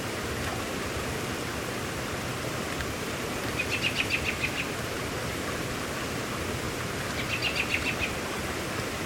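Steady hiss of rain. Twice a short, rapid chirping trill of about a second rises above it, a little before halfway and again near the end.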